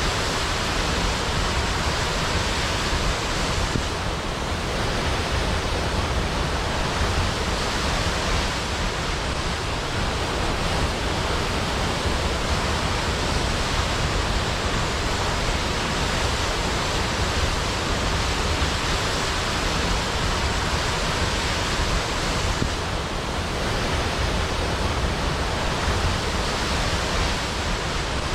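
Waterfall cascading into a pool: a steady, dense rush of falling water that does not change.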